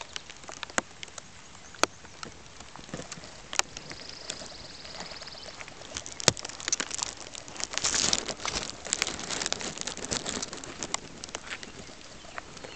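Rain falling on pond water, an even patter with many sharp taps of single drops close by; it grows heavier about eight seconds in.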